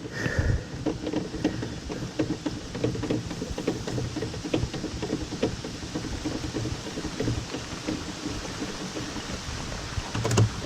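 Heavy rain pattering steadily on hard surfaces in a dense run of small ticks, with a Kohler natural-gas standby generator's engine running underneath.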